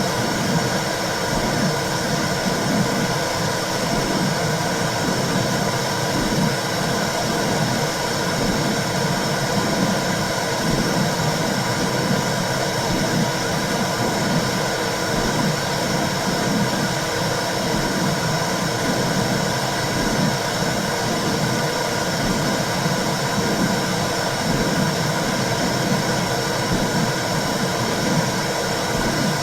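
Womb sound (the whooshing noise of the mother's uterus, as heard by a baby inside): a steady, dense whooshing, heaviest in the low range, that wavers unevenly without a break.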